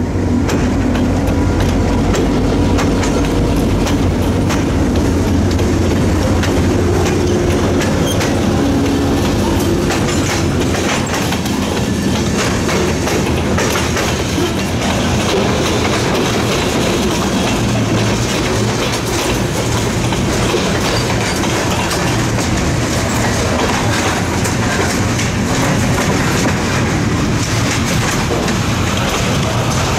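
Freight train passing close by. The diesel locomotives, an EMD GP40-3 and a GE B23-7, run past at the start, and their engine drone fades over the first ten seconds or so. After that, covered hopper cars roll by with a steady rumble and a continual clatter of wheels over the rail joints.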